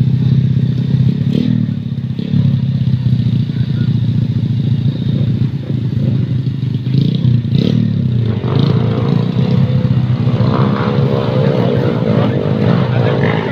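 Motorcycle engine idling steadily while it is warmed up. A wavering higher tone joins in over the last five seconds.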